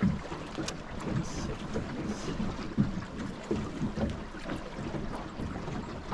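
Wind rumbling on the microphone aboard a fishing boat, with small scattered handling knocks and one sharper knock a little under three seconds in.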